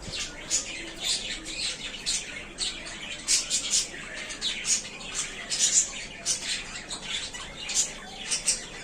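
Several budgerigars chattering with many quick, high chirps and squawks.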